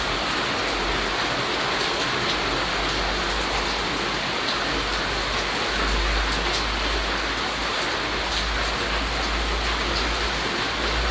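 Steady rainfall: an even hiss of rain with scattered single drops ticking through it. A low rumble underneath swells about halfway through and again near the end.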